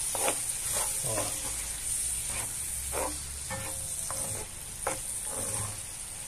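Chopped sausage, bacon, onion and peppers wet with passion fruit pulp sizzling in a cast-iron skillet, with a wooden spatula scraping and stirring through them in repeated irregular strokes.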